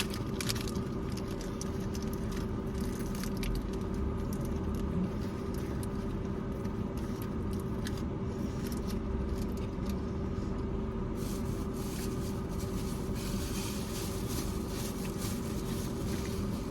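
Close-up eating of a burrito: scattered soft clicks, crackles and wrapper rustles from chewing and handling the food, over a steady low background hum.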